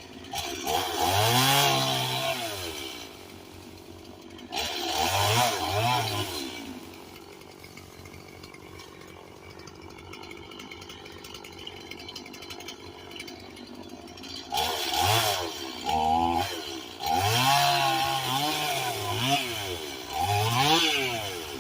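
Chainsaw revving up to full speed in repeated bursts and falling back to idle between them, with a long idling stretch in the middle.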